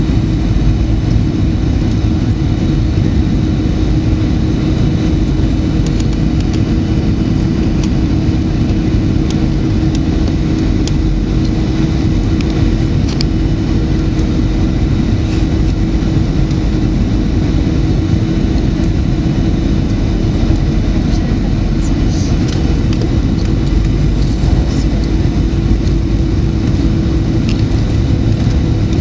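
Boeing 737-900 cabin noise, its CFM56 jet engines running steadily. The noise is loud and even, with a constant droning hum and a few faint ticks.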